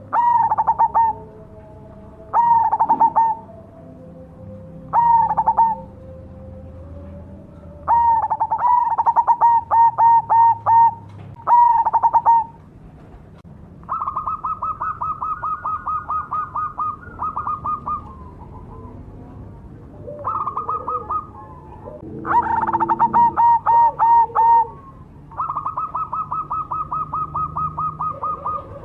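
Zebra dove (perkutut) of the black cemani variety singing its cooing song. It gives short bursts of quick notes a couple of seconds apart, then from about halfway on longer runs of evenly spaced rapid notes.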